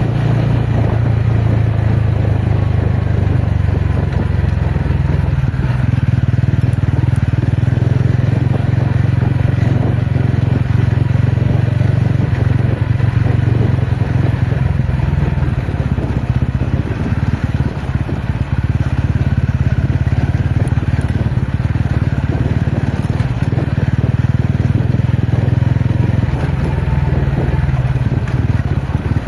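TVS Ronin motorcycle's single-cylinder engine running at a steady, even pitch while the bike is ridden off-road.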